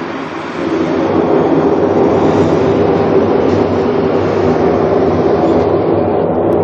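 A loud, steady rumbling drone with a low hum running through it, swelling about half a second in and then holding.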